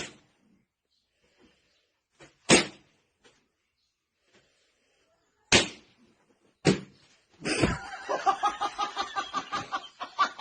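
Four sharp slaps or smacks, a few seconds apart. About seven and a half seconds in, a person starts laughing in quick, short giggles.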